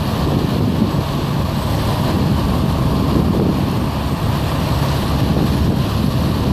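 Steady low rumble of wind buffeting the microphone over the sound of passing vehicles, with no distinct separate events.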